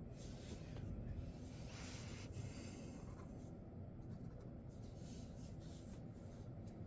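Sharpie Creative Marker tip drawing on paper: a series of short scratchy strokes, some quick and some drawn out, over a faint steady low hum.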